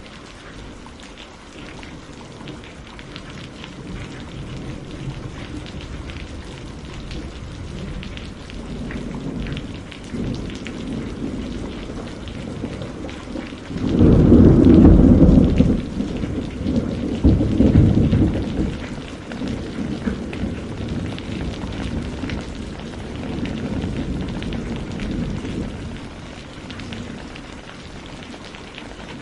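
Campfire crackling steadily, a dense run of small pops and snaps. A low rumble swells twice around the middle and is the loudest thing heard.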